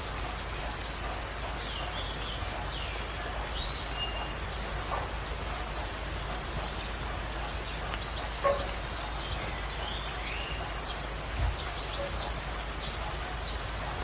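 A songbird repeating a short, rapid trill phrase five times, about every three seconds, with softer gliding notes between, over a steady hiss of running water. A single short, sharp tap sounds a little past halfway.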